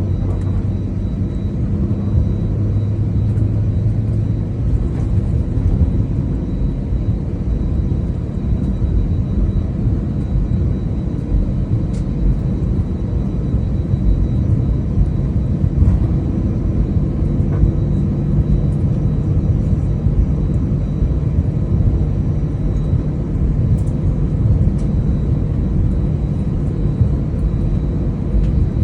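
Steady low rumble inside the cabin of an Airbus A320-200, with a faint engine hum that shifts slightly in pitch partway through.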